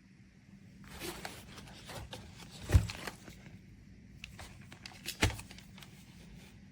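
Handling noises: rustling and light clicks, with two sharp knocks about two and a half seconds apart.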